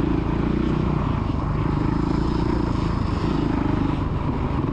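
Motocross dirt bike engine running on the track, its revs rising and easing every second or so.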